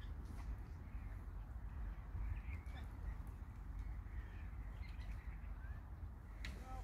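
Short, scattered bird calls over a steady low rumble of wind on the microphone.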